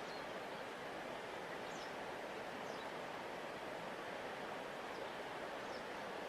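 Large river flowing past its bank: a steady, even rush of water. A few faint, short, high chirps are heard over it.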